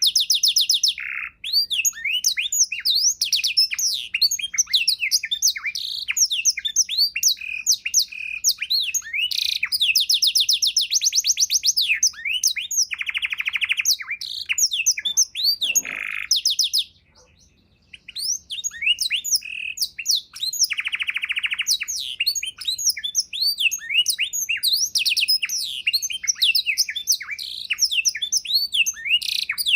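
Domestic canary singing a long, fast, varied song of chirps, sweeps and rolling trills, with a brief pause a little past halfway.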